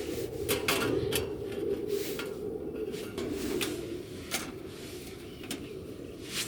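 Short clicks and knocks of cookware or utensils being handled, over a steady low rushing noise that stops near the end.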